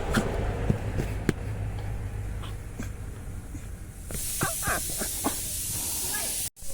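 Steady hiss of heavy monsoon rain that grows brighter and louder about four seconds in, with a few short high squeaks soon after.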